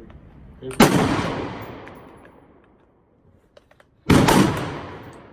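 Two AR-15 rifle shots about three seconds apart, each with a long echo that fades over a second or more.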